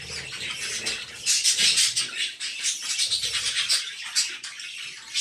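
Budgerigar chicks begging with dense, rapid, raspy calls while being fed by the adult male, loudest from about a second in to two seconds in.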